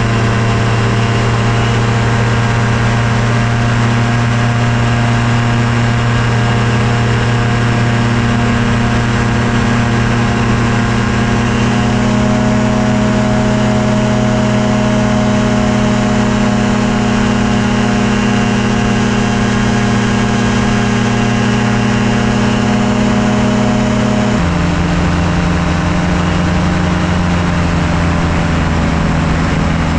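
Ultralight airplane's Yamaha Phazer engine running steadily in flight. About 24 seconds in, its pitch drops and holds lower as the throttle is eased back.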